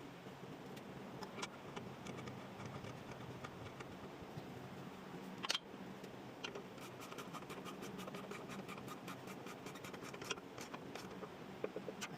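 Metal hand-tool clicks and scrapes from oil-change work on a truck, over a steady low hum. There is one sharp click about five and a half seconds in, then a run of quick, even clicks for a few seconds.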